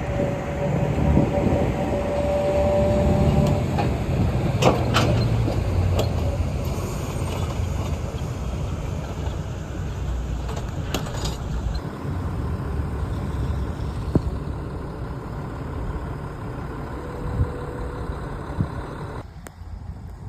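A New York City subway train running: a low rumble with a steady whine over the first few seconds and several sharp clanks. The sound drops off suddenly near the end.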